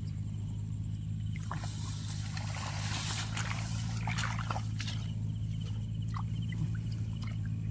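A small engine running steadily with a low hum, while water and mud splash and slosh, busiest about two to four seconds in.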